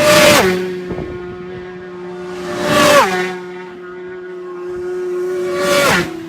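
Motorcycles passing at high speed one after another: three pass-bys about three seconds apart, each a steady engine note that drops sharply in pitch as the bike goes by.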